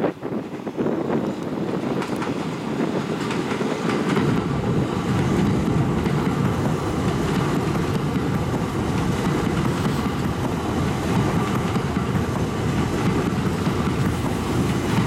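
Kintetsu 80000 series limited-express electric train passing at speed. Its rumble of wheels on rail, with clickety-clack, builds over the first few seconds and then holds loud and steady.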